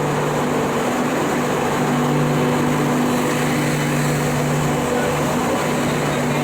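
Steady mechanical drone of a standing train, a constant low hum over a noisy rumble, with the hum dipping briefly about a second in and again near five seconds.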